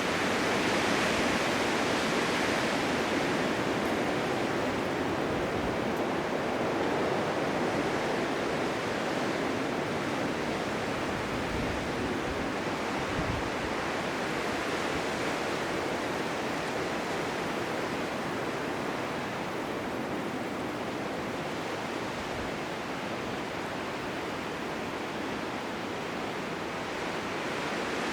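Blizzard wind: a steady, dense rush of wind-driven noise with no distinct gusts or tones, a little stronger near the start and easing slightly later.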